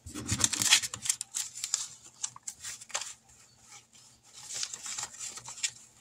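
Paper banknotes rustling and crinkling as they are handled and sorted, in quick irregular bursts, busiest in the first second and again near the end.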